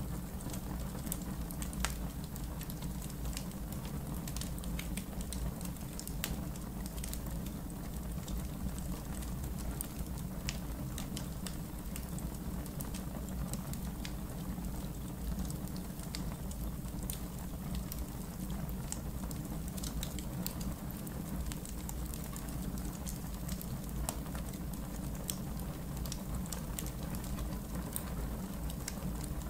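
Wood fire in a backyard fire pit burning steadily, with many irregular sharp crackles and pops over a low steady rumble.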